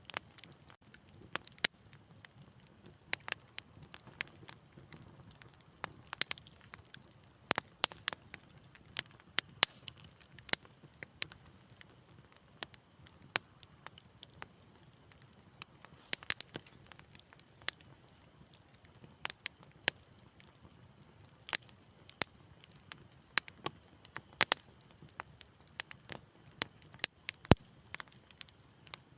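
Wood fire burning in a fireplace: irregular crackles and sharp pops, a few each second, over a faint low rumble of flame, with one louder pop near the end.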